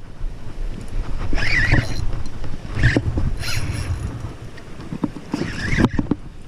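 Strong wind buffeting the microphone, with water moving against a small boat's hull and a few short noisy bursts.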